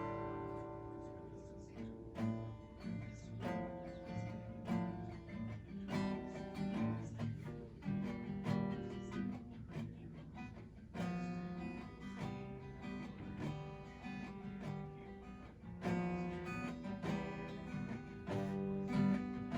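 Background music: acoustic guitar being strummed and picked.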